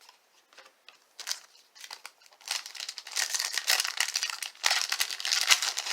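Baseball card pack wrapper being opened by hand: a few light rustles, then steady crinkling and tearing of the wrapper from about two and a half seconds in.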